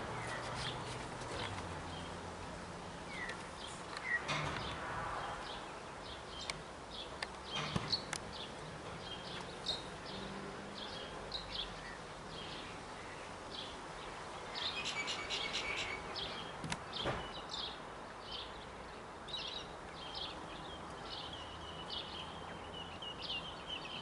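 Birds chirping and calling again and again in short high notes, with a burst of rapid chattering about fifteen seconds in. A steady high-pitched whine joins near the end.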